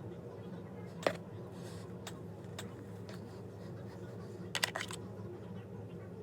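A few scattered light clicks and taps, with a quick cluster of clicks about four and a half seconds in, over a steady low hum.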